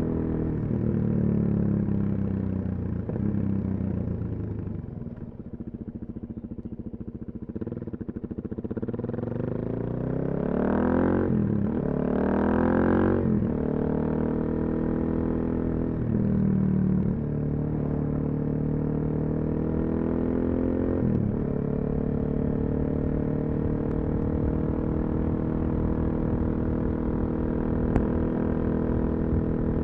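Suzuki DR-Z400SM single-cylinder four-stroke engine through a full Yoshimura exhaust, under way: the engine note falls off and eases back about a fifth of the way in, then revs up twice in quick succession with gear changes about a third of the way in, and settles into steady cruising with a couple of brief shifts. One sharp click near the end.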